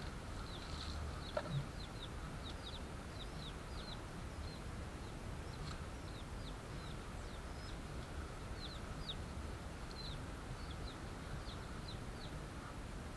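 Small birds chirping throughout: a scattered string of short, high chirps, each falling in pitch, over a low background rumble. Two soft thuds come about a second and a half in.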